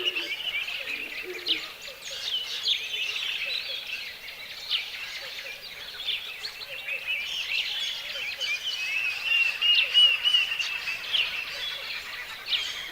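A chorus of birds singing and chirping, many calls overlapping. A run of quick repeated whistled notes is loudest at the start and again about two-thirds of the way through.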